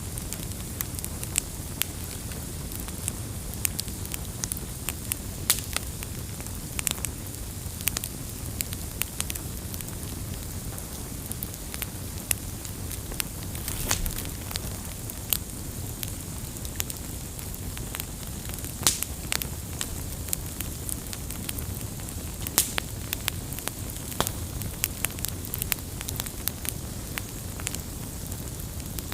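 Campfire crackling: frequent, irregular sharp pops and snaps over a steady low rush of burning.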